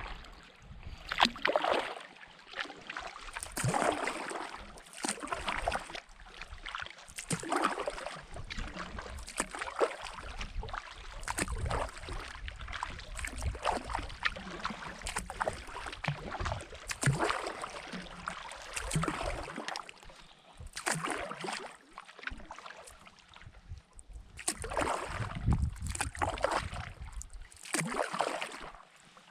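Canoe paddling: a paddle dipping and pulling through the water about every couple of seconds, with splashing and water lapping and knocking against the hull.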